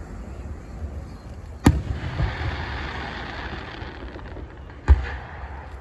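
Fireworks going off: two sharp bangs about three seconds apart, the second the louder. The first is followed by a hiss lasting a couple of seconds.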